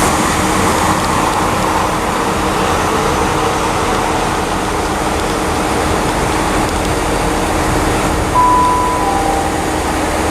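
Steady running rumble of a train at a railway station. About eight seconds in comes a short high tone, then a slightly lower one.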